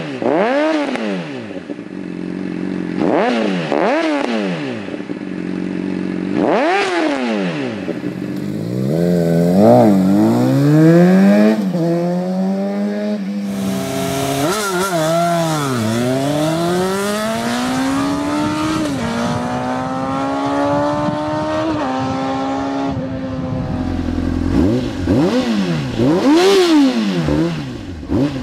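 2006 Honda CBR600RR's inline-four engine revving through its exhaust. Several quick throttle blips come first, then a longer climb and fall in pitch with a couple of small steps, and more sharp blips near the end.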